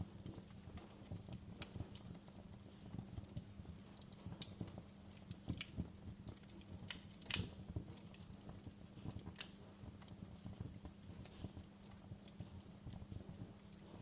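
Wood fire crackling: irregular pops and snaps over a low, steady rumble, with the loudest snap about seven seconds in.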